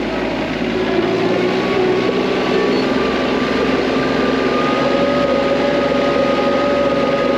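TYM T25 compact tractor's diesel engine running steadily under work, with a whine that rises slightly in pitch in the first few seconds and then holds steady.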